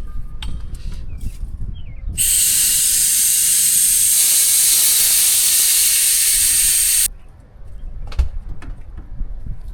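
Loud steady hiss of pressurised gas escaping, starting suddenly about two seconds in and cutting off sharply about five seconds later, with small clicks and handling noise before and after.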